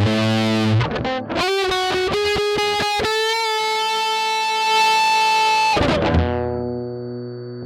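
Electric guitar played through a ProCo RAT 2 distortion pedal: a chord, then a short single-note lead phrase with vibrato settling into a long held note, and a low chord left ringing near the end.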